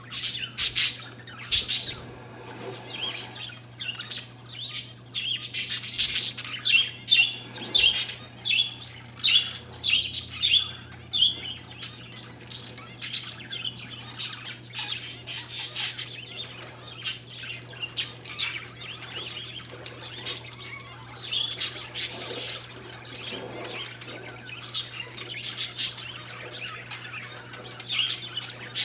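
Parakeets and zebra finches chirping and squawking, many short overlapping calls in a constant busy chatter, over a steady low hum.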